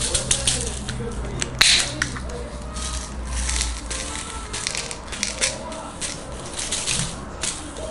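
Metal spatulas scraping and tapping on a metal cooking plate in quick, irregular clicks, with faint voices in the background.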